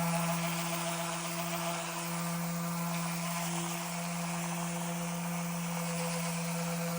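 Electric orbital sander running steadily on a wooden board: a constant motor hum with a hiss over it.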